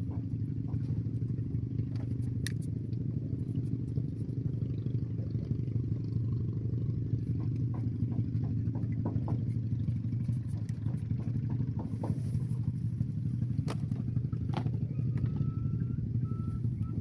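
A small engine running steadily at an even speed, with scattered light clicks and rattles over it.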